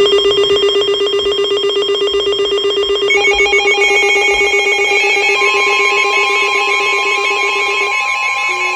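Weather alert radios sounding their tornado warning alarms at once: a loud, fast-trilling alarm tone, with further steady alarm tones layering in about three seconds in and the steady NOAA Weather Radio warning alarm tone joining about five seconds in.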